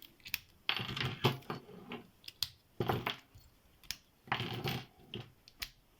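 Small metal padlocks being handled, clinking and clicking against each other: a string of sharp clicks and short metallic rattles.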